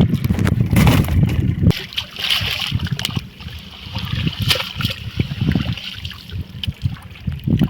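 River water splashing and trickling around a hand net being worked in the shallows, with scattered small splashes and clicks. A low rumble sits under it for the first second and a half or so.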